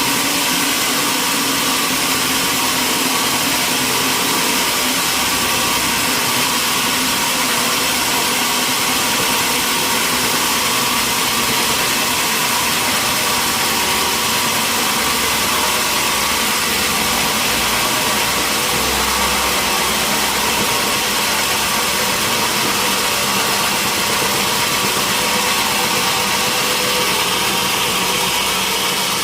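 Sawmill machinery running steadily: a constant engine drone under an even hiss, with no cuts or breaks.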